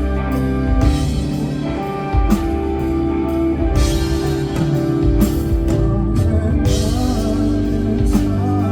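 Live band playing a song with drum kit, bass and guitar, a passage without sung lyrics.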